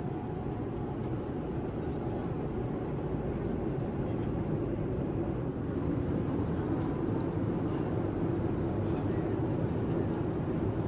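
Boeing 787-9 airliner cabin noise in flight: a steady rumble of engines and airflow, growing slightly louder, as the aircraft prepares to land.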